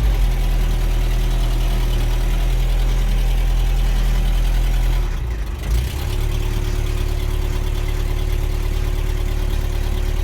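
1981 Toyota 22R four-cylinder engine with a Weber carburetor, just cold-started after sitting through the winter, running at a steady idle. About five seconds in the engine note dips briefly, then settles back into a steady idle.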